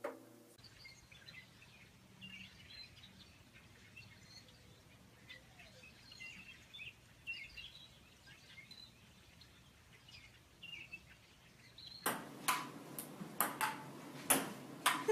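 Birds chirping faintly and intermittently. Near the end this gives way to a ping-pong ball clicking sharply as it bounces on the table and is hit, two or three strikes a second.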